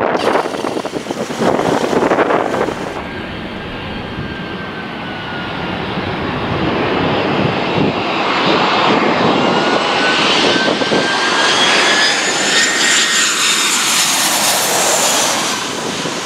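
Jet airliner's engines on low final approach, a rushing roar with a whine that rises slowly in pitch and grows louder as the aircraft comes close overhead near the end.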